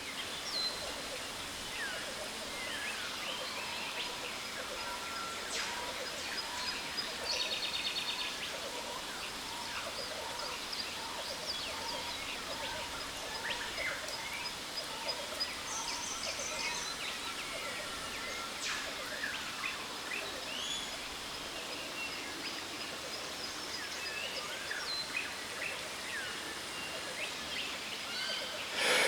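Jungle ambience beside a waterfall: a steady rush of falling water under many birds chirping and trilling, one of them repeating a short note about once a second for several seconds. Near the end a sharp, loud breath comes in.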